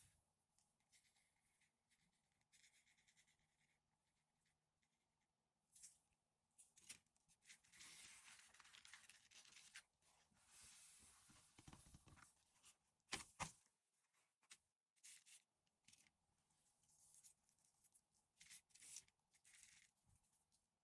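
Faint scratching and swishing of sand being spread and rubbed by fingers on a sand-art board, in short uneven strokes, with two sharp clicks a little past the middle.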